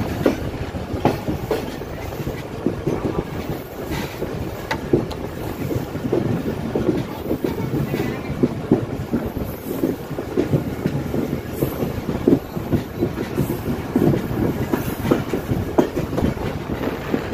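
Moving passenger train heard from an open carriage doorway: steady running rumble with the wheels clacking irregularly over rail joints and points.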